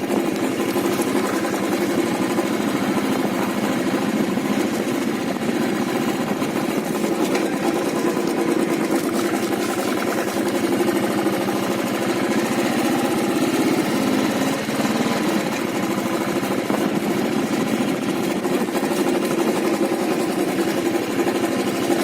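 Motorcycle engine running steadily while being ridden, its firing pulses coming as a fast even chatter.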